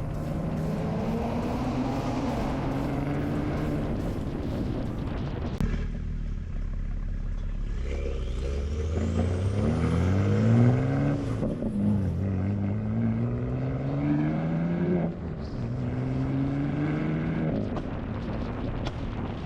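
Car engine under way, revving up through the gears: its pitch climbs and drops back at each shift, twice in quick succession about halfway through, with a sudden change in the sound near the start of the second third.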